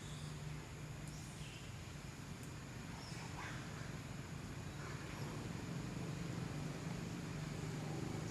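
Outdoor ambience: a steady low hum with a few faint, short, high calls from animals or birds.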